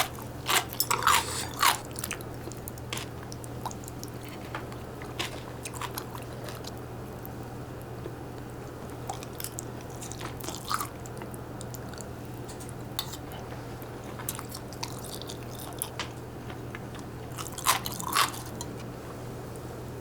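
Someone biting and chewing crisp food: scattered short crunches, bunched about half a second in and again near the end, over a steady low hum.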